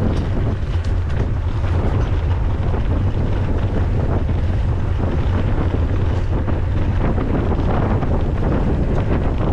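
Steady, loud wind buffeting a camera microphone on a mountain bike being ridden, with scattered light clicks and rattles.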